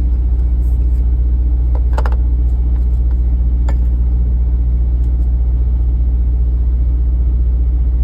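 Semi-truck's diesel engine idling steadily, a low even hum heard inside the cab, with a few light clicks and taps about two seconds in and again near four seconds.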